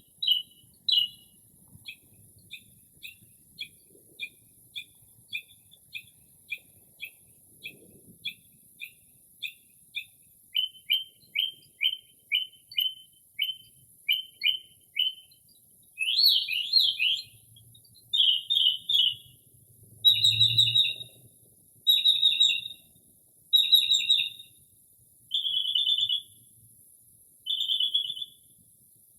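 Northern mockingbird singing, running through a string of different borrowed calls. It starts with a series of short clipped notes about two a second, speeds into quicker rising notes, gives a swooping phrase, then repeats harsher buzzy phrases about every two seconds.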